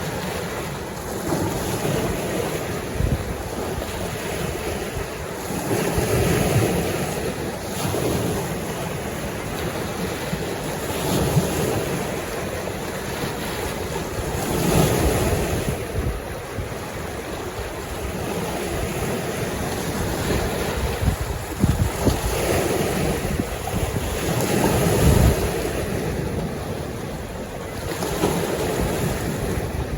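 Lake waves washing against the shore, swelling and easing every few seconds, with wind buffeting the microphone.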